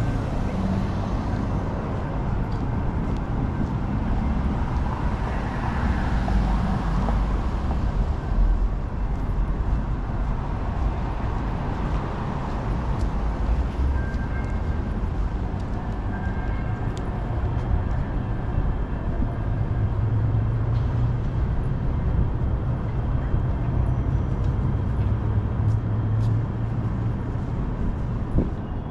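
City street traffic: a steady rumble of passing cars and engines, with a deeper engine hum building for several seconds in the second half.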